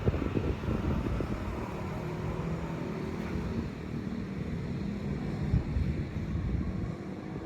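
Wind rumbling and buffeting, mostly low and deep, with gusty swells that rise and fall.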